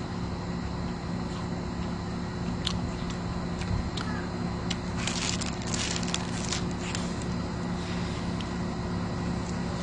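A person biting into and chewing a deep-fried breaded croquette, with a cluster of crisp crunching sounds about five to six and a half seconds in, over a steady low hum.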